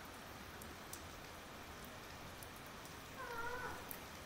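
Light rain falling steadily on a tiled rooftop. About three seconds in comes one short wavering cry that falls in pitch at its end.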